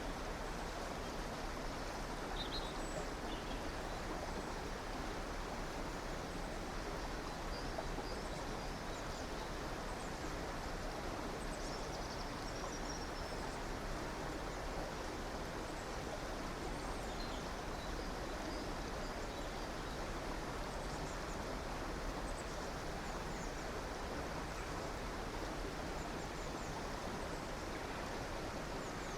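River water rushing steadily, with faint small birds chirping briefly now and then above it.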